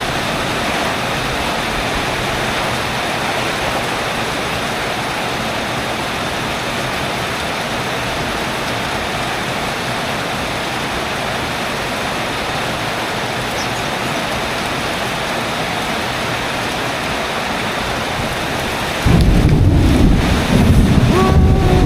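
Steady heavy rain pouring down, an even hiss of drops. About 19 seconds in, a louder, deeper rush suddenly takes over.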